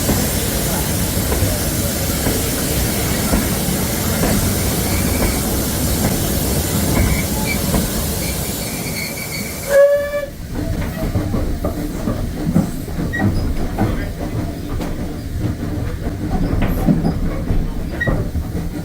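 A heritage railway train running on the line, with faint intermittent high wheel squeals in the first half. About ten seconds in, the sound changes abruptly with a brief sharp toot, the loudest moment. After it comes a rumble with repeated clicks and knocks of wheels over rail joints.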